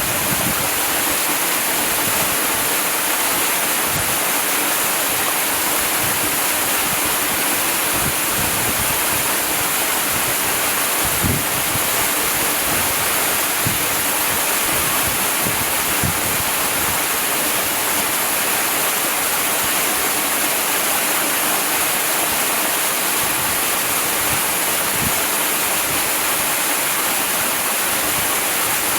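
Waterfall: water falling and splashing, a steady, even rush with no pauses, with faint low thuds here and there.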